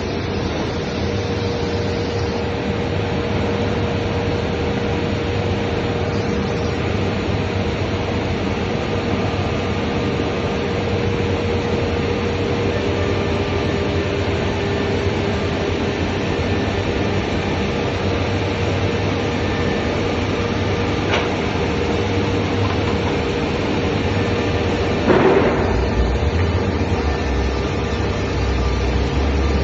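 CNC beam saw's lifting table and panel loader running through a loading cycle: a steady mechanical hum with a held tone, and a brief louder sweep in pitch near the end.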